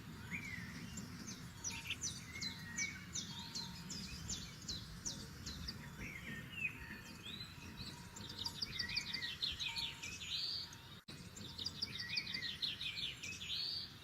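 Several forest songbirds singing and calling over a low steady background rush, with a fast trill of rapid notes rising at its end heard twice in the second half. The sound cuts out for an instant about eleven seconds in.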